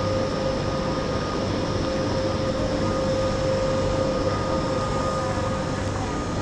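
Train at a station platform, its machinery humming steadily with a few held tones over a rushing noise.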